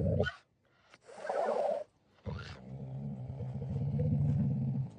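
Low, rough animal growling in two long stretches, with a short higher sound between them.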